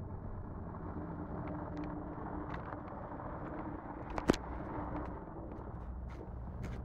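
A small 4x4's engine running at a distance as it drives slowly around a dirt lot, heard as a faint steady hum over a low rumble. A single sharp click about four seconds in is the loudest sound.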